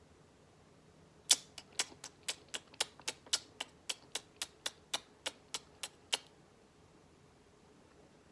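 A budgie's beak tapping rapidly on a hard surface: a run of about twenty sharp clicks, roughly four a second, starting about a second in and stopping after some five seconds.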